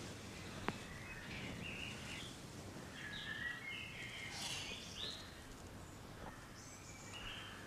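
Faint birdsong: short chirping phrases over a quiet outdoor background, with a single sharp click a little under a second in.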